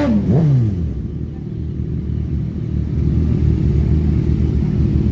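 Superbike engines at a drag strip: a quick throttle blip whose pitch rises and drops right at the start, a second falling rev just after, then a steady low rumble from the idling engines.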